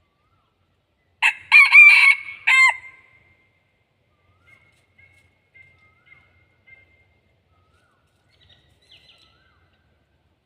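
Red junglefowl rooster crowing once, a short broken crow starting about a second in, followed by faint high bird chirps.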